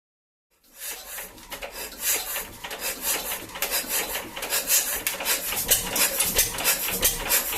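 Old Lister twin-cylinder engine starting and running, a rasping mechanical clatter that cuts in about half a second in, grows louder and settles into a steady rhythmic beat.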